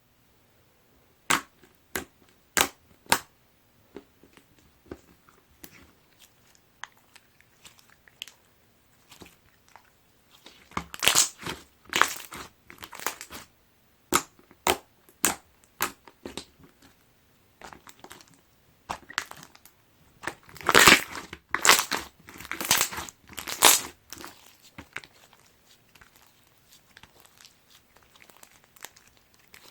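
Clear slime with fishbowl beads being squeezed and pressed by hand, making sharp crackling pops. A few single loud pops come in the first few seconds, then two longer runs of dense crunching come about ten and twenty seconds in.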